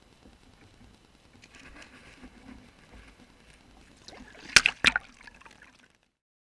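Water sloshing and trickling at a creek, with two sharp, loud noises about a third of a second apart near the end; the sound cuts off abruptly after that.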